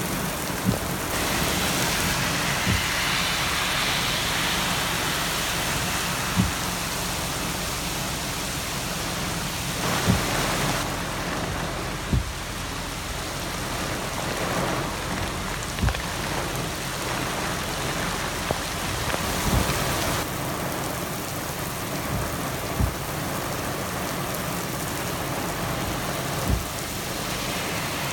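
Heavy rain pouring onto pavement in a strong storm: a steady, dense hiss, with a sharp tap close by every few seconds.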